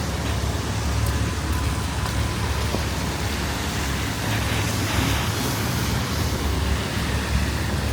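Strong wind buffeting the camera's microphone: a steady, gusting rumble over an even hiss of city street noise.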